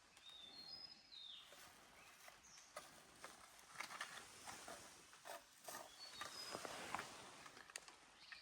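Quiet forest background with a few short, high bird calls about a second in and again past six seconds, and scattered soft crackles.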